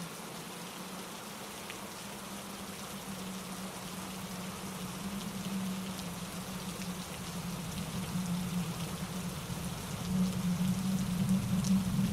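Steady rain pattering on leaves and rocks, with wind in the trees and a mountain stream tumbling over granite rocks beneath it, swelling louder near the end.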